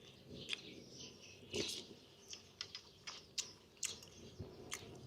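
Close-up chewing of chicken: irregular wet mouth clicks and lip smacks, about a dozen over a few seconds.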